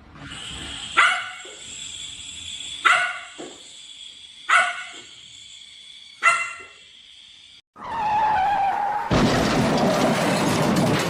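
A dog barks four times, sharp single barks spaced about a second and a half to two seconds apart. About eight seconds in, the barking stops and a loud, even noise takes over.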